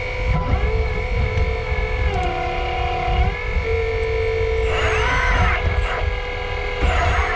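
Hydraulic pump of a 1/8-scale RC excavator whining steadily, its pitch dipping and recovering several times as the hydraulics take load and ease off, over a low rumble.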